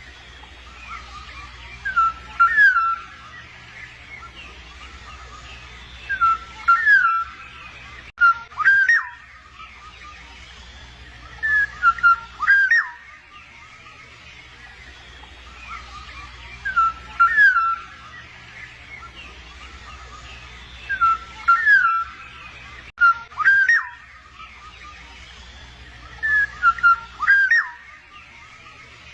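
Black-naped oriole giving loud, fluty whistled phrases, each about a second long with quick pitch sweeps, repeated eight times a few seconds apart over a steady low hum.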